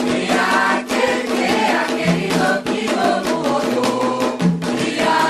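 A group of voices singing a Candomblé chant to the orixás, with atabaque hand drums beating quickly under the singing.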